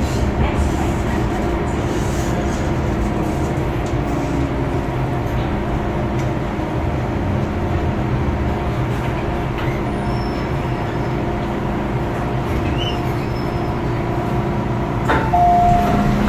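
MTR M-Train electric multiple unit running between stations: a steady rumble of wheels on track under a constant motor hum. Near the end a new steady tone comes in and the sound gets slightly louder.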